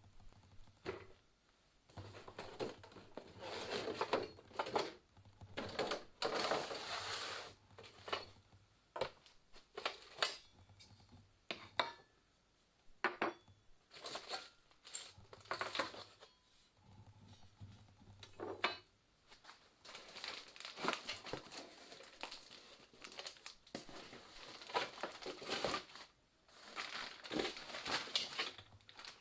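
Packing material being crinkled and torn open while a digital readout kit is unboxed, in irregular bursts of rustling with occasional sharp knocks and clicks from the parts being handled.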